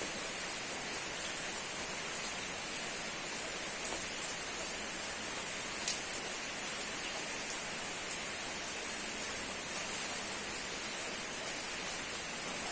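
Steady rain falling, an even hiss with a few single louder drop ticks about four and six seconds in.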